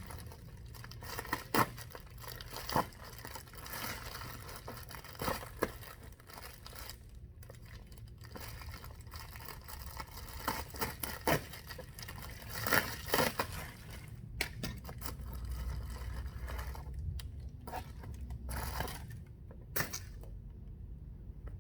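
Carburetor packaging being torn open and handled, with irregular crinkling, tearing and sharp crackles.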